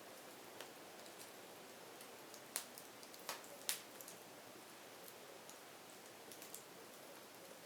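Firewood crackling: a soft steady hiss with scattered small pops, and three louder snaps close together near the middle.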